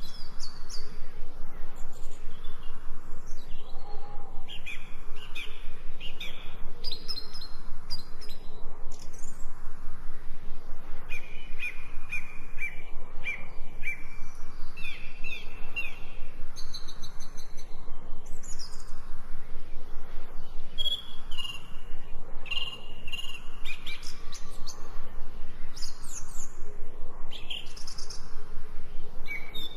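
Songbirds chirping and singing, many short overlapping calls and trills throughout.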